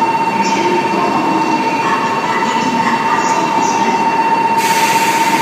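A steady high-pitched warning tone sounds over train noise during a Shinkansen coupling or uncoupling operation. A loud hiss begins about four and a half seconds in.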